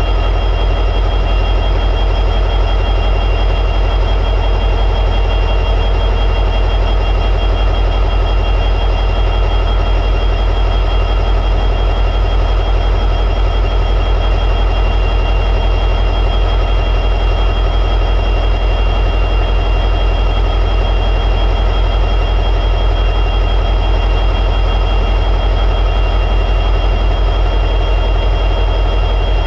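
EMD 710G3B 16-cylinder diesel prime mover of an SD60E locomotive running at high idle. It is a steady, unchanging deep drone with a constant high whine over it.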